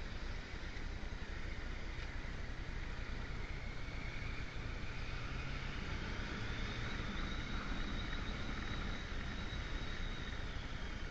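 Motorcycle running on the move, with wind rushing over the microphone; the engine note climbs a little about halfway through.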